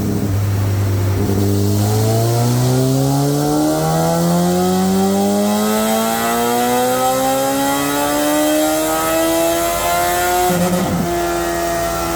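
2003 Kawasaki ZX-12R's inline-four with a Muzzy exhaust making a full-load dyno pull, its revs climbing slowly and steadily. About ten seconds in the pitch drops abruptly and then holds steady.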